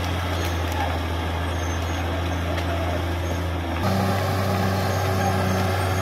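CAT D6R XL bulldozer's diesel engine running steadily under work. A little under four seconds in, the sound changes abruptly and is slightly louder after.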